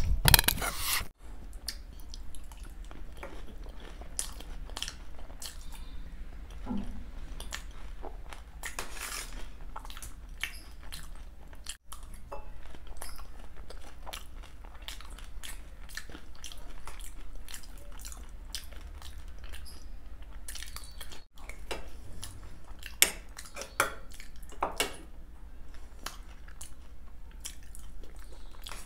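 Close-up chewing and biting of dahi golgappa and momos, with crunches of the puris, and a few clinks of a steel spoon against the steel plate.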